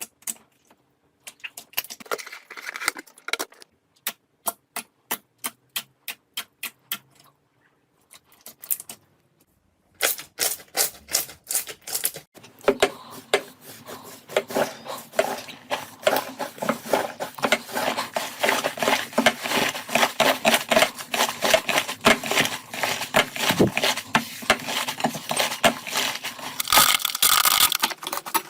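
Slime being worked by hand, making sharp clicks and crackles: separate clicks for about the first ten seconds, then a dense, continuous crackling to the end.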